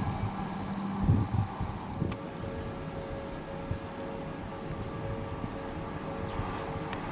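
Outdoor summer ambience dominated by the steady high-pitched buzz of insects, likely cicadas, with wind rumbling on the microphone. About two seconds in the sound cuts, the buzz becomes fainter, and a steady two-note tone sounds faintly underneath.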